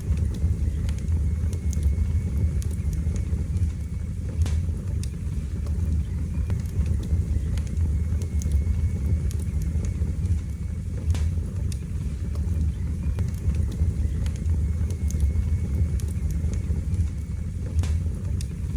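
Wood fire burning in a fireplace: a steady low rumble of flames with occasional sharp crackles and pops, a few of them louder.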